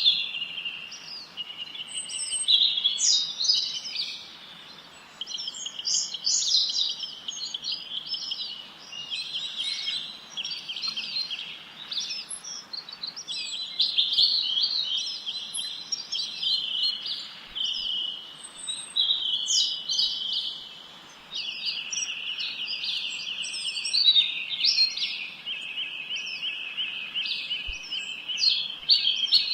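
Several small songbirds chirping and trilling at once, their high calls overlapping without a break, with rapid trills running through.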